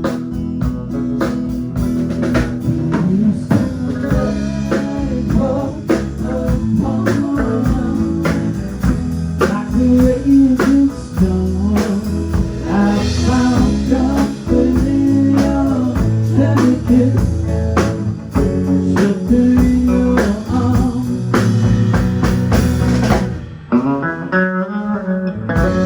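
Band playing a blues-style tune with guitar and drum kit. The music dips briefly near the end, then carries on.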